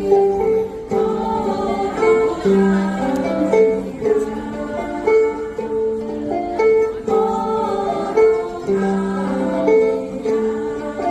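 Ukulele ensemble playing a song, with a group of voices singing along in long held notes.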